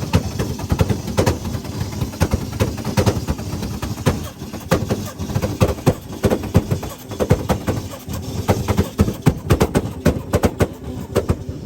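A revving car's exhaust backfiring in rapid, irregular loud pops and bangs over the engine's low rumble, the crackle of a tune set to shoot flames.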